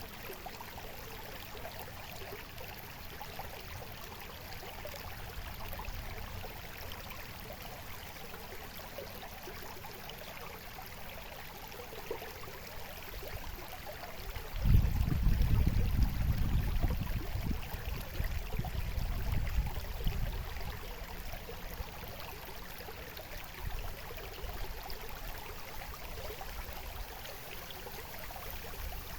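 Babbling stream water flowing steadily. About halfway through, a loud low rumble comes in suddenly and fades out over about six seconds.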